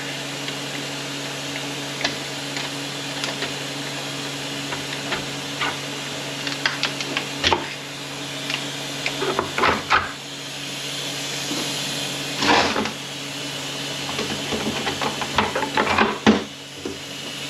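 Metal automatic-transmission parts clinking and knocking as they are pulled out and handled during teardown: scattered light clicks in a few clusters, over a steady background hum.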